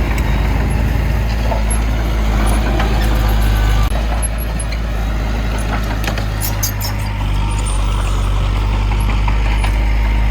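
Heavy earthmoving machine's diesel engine running steadily with a low hum, with scattered light metallic clicks and clanks, a cluster of them a little past the middle.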